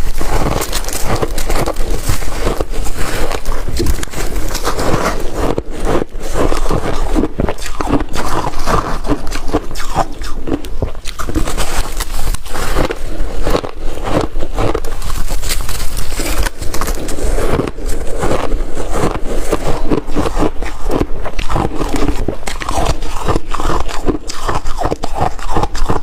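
A person chewing and crunching a mouthful of water-dipped shaved ice, loud and close. The crunching is dense and unbroken, with rapid crackles and no pauses.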